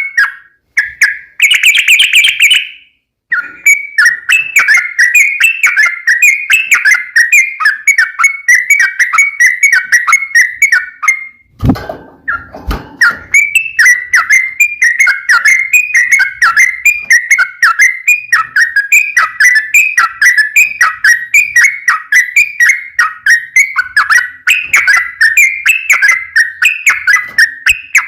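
Yellow-vented bulbul (trucukan) singing its long, rapid song: a fast run of bubbly chirping notes that goes on with barely a break. It pauses briefly near the middle, where there is a low thump.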